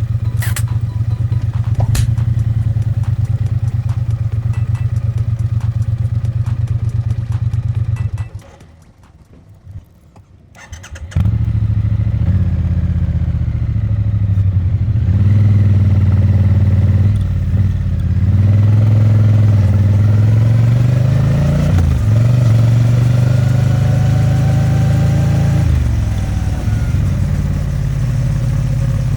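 Triumph Bonneville T100's vertical-twin engine idling steadily; the sound drops away for about three seconds, then the twin runs again with its revs rising and falling repeatedly.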